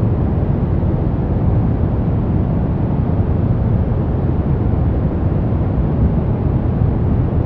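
Steady synthetic noise from a white-noise relaxation track, unchanging throughout; it is deep and full, with most of its weight low down and little high hiss.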